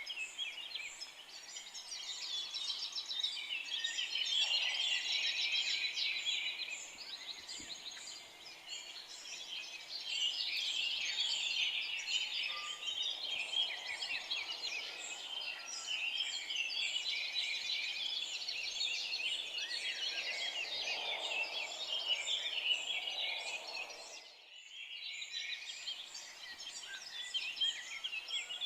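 A dense chorus of many forest songbirds chirping and trilling at once, with a brief dip in the whole chorus a few seconds before the end.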